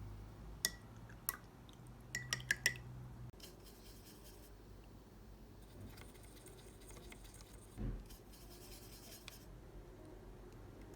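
Watercolour painting sounds: several light clicks and clinks with a short ring in the first three seconds, then stretches of brush or pencil scratching over paper, with a soft thump about eight seconds in.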